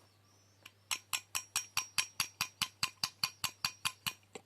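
A metal mechanism clicking like a ratchet: one click, then an even train of about five clicks a second lasting some three seconds, each with a faint high ring.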